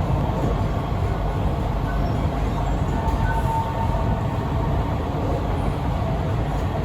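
Steady running noise heard inside a C151B metro train car in motion: a continuous low rumble of wheels and motors on the track, with a faint short tone about three seconds in.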